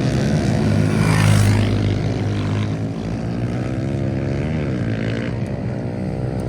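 Pit bike engines running hard on track, the engine note dropping briefly about halfway through as the throttle is eased, then picking up again.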